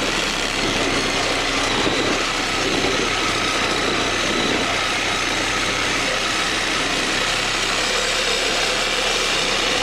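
Power saw with a Diablo blade running steadily as it cuts through an AC condenser's copper-and-aluminum coil. The cut goes slowly, the workpiece vibrating under the blade.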